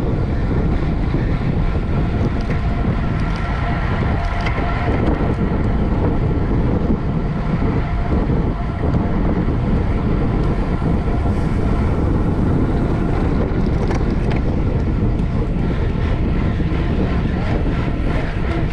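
Steady wind noise rushing over a camera microphone riding along on a racing bicycle, with a faint steady hum underneath.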